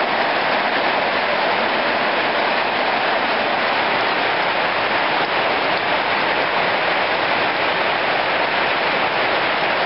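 Heavy downpour of rain: a steady, even hiss of rain coming down hard.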